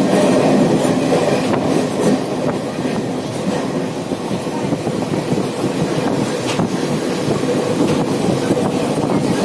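Passenger train running, heard from aboard a sleeper-class coach: a steady rumble of wheels on the rails with occasional knocks.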